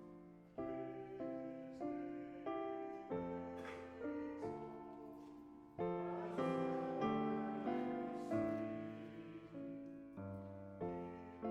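Piano playing a slow run of chords, each struck and left to die away.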